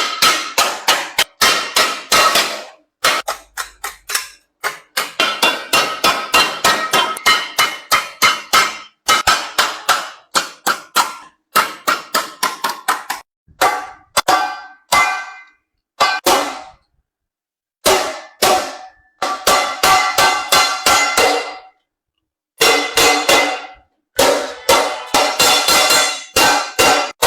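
Hand hammer striking sheet metal in rapid runs of about four to six blows a second, each blow ringing briefly, with short pauses between runs.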